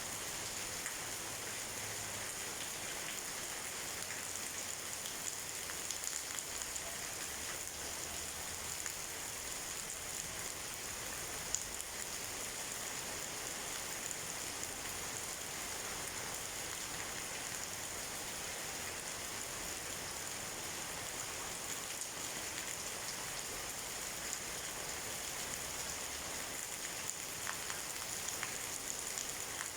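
Steady rain falling, an even hiss of drops with no thunder, and one sharp tick about halfway through.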